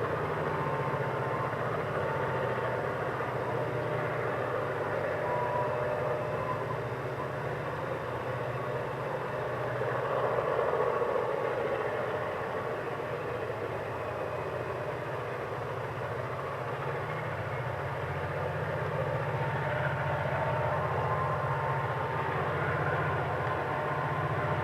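EMD diesel locomotives of the GM and ALF classes running steadily under load as they haul a loaded grain train, a deep even engine hum under a dense rumble, with faint high-pitched tones coming and going. The sound swells briefly near the middle.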